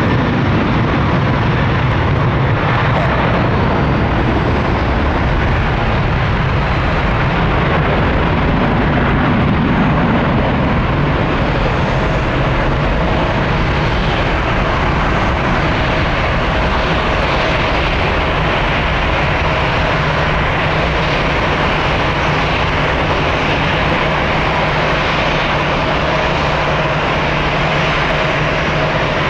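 Airbus A330-300 twin jet engines at high power as the airliner departs, a steady, loud noise with a thin steady tone coming in about twelve seconds in.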